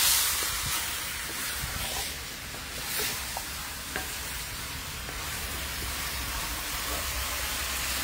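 Geera (cumin) turkey sizzling in a pot while a spoon stirs it, with a few light clicks and scrapes of the spoon against the pot.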